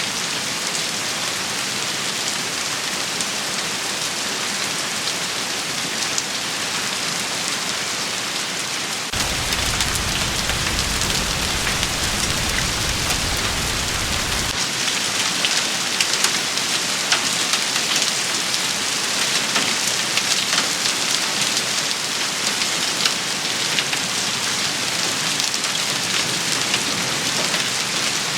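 Steady rain shower: a dense patter of drops striking surfaces, with many small individual ticks. About nine seconds in it gets a little louder and stays so, and a low rumble sits under it for about five seconds.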